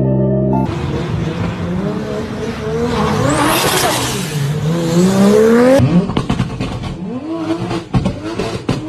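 Toyota Supra MK4 straight-six engine and exhaust under way, its pitch rising and falling as the car accelerates and lifts off. After an abrupt change a few seconds in, it revs up and down with short, sharp cracks.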